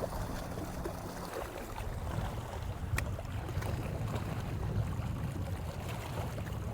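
Steady low rumble of water and wind around a small fishing boat, with a faint hum that stops just over a second in and a single light tick about three seconds in.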